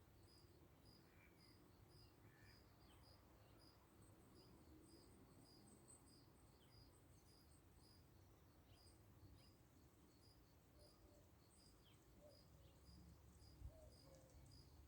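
Faint, steady insect chirping, about two chirps a second, with a few faint, brief bird chirps now and then.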